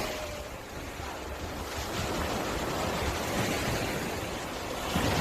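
Sea waves breaking and washing up a beach, a steady surf noise that swells again near the end, with low wind rumble on the microphone.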